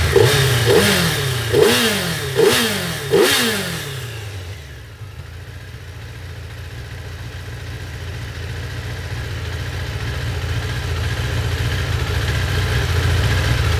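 2002 Suzuki Hayabusa's inline-four engine revved in about five quick blips, each rising and falling in pitch, then dropping back to a low idle that slowly grows louder. The idle screw is backed all the way off, so it idles low.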